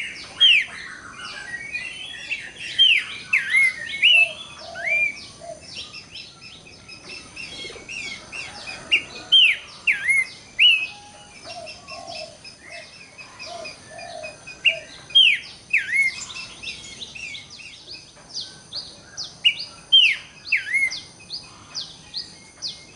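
Horsfield's babbler (pelanduk semak) calling repeatedly: clusters of sharp, down-slurred whistled notes, with a faint steady high buzz underneath.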